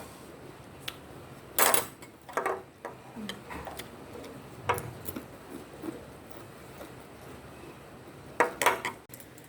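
Scattered clicks and clinks of dishes and cutlery being handled during a meal. The loudest clusters come about a second and a half in and again near the end.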